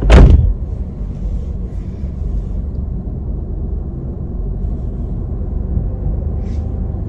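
A sharp thump right at the start, then the steady low rumble of a car's idling engine heard inside the cabin.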